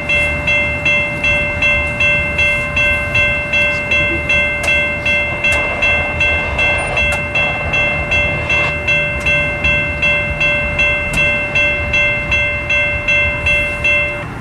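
Railroad grade-crossing bell ringing at a steady pace of about two and a half strikes a second, stopping near the end, with a low rumble beneath.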